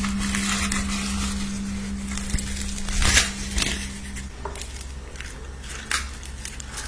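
Crunching and crinkling from food being eaten and handled, with scattered sharp snaps. A steady low hum sounds underneath until about four seconds in, then stops.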